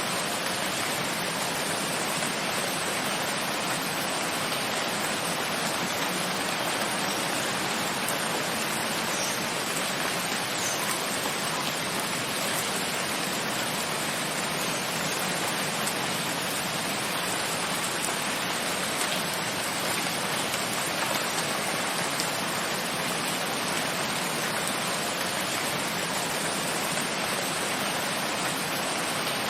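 Steady rain falling, an even, unchanging hiss with no single drops or thunder standing out.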